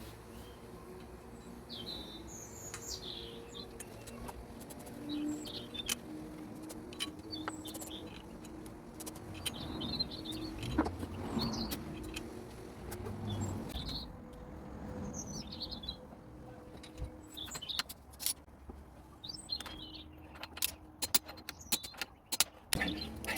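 Small birds chirping on and off over a faint steady hum, with scattered sharp clicks and knocks that grow more frequent near the end.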